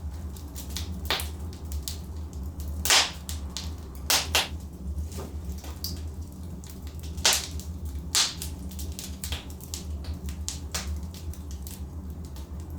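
Logs burning in a fireplace, crackling with many small clicks and a handful of sharp pops, the loudest about three seconds in, over a steady low rumble.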